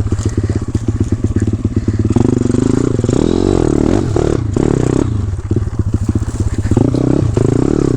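Dirt bike engine running close by, revving up and easing off again and again as it is ridden.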